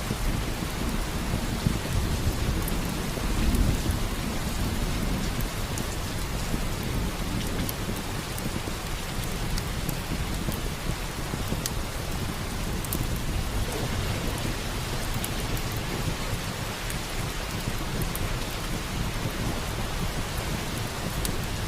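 Steady rain falling, with low thunder rumbling and swelling a few seconds in. Scattered small crackles of a wood fire in a fireplace sound through it.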